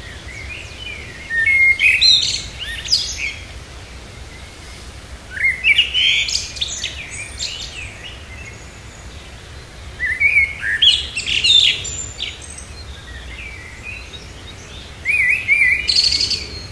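A songbird singing four short phrases of about two seconds each, with pauses of a few seconds between them.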